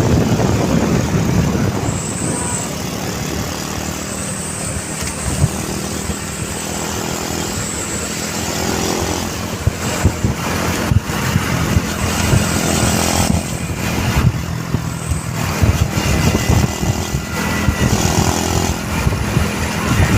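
Mitsubishi Fuso Canter light truck's diesel engine running steadily under load, with a few brief knocks.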